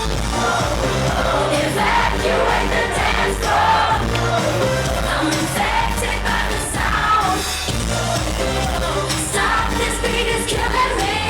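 Live dance-pop music: a female lead singer over a steady, heavy electronic bass beat, played through a concert sound system.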